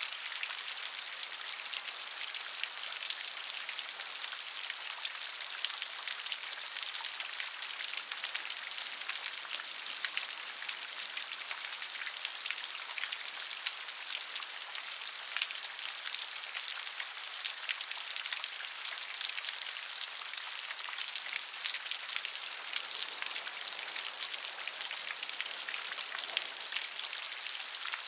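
Steady rain, a dense pattering of many fine drops on a surface.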